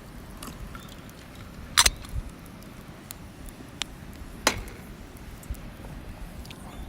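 Wood campfire crackling: scattered small pops over a low steady hiss, with two sharper snaps about two seconds in and again about four and a half seconds in.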